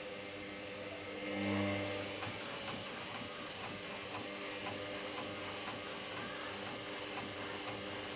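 Hoover washing machine's drum motor turning the load, speeding up briefly about a second in and then dropping back to a steady whir with light knocking. It is trying over and over to balance an unbalanced load for the spin, which the owner calls 'balancing trashed'.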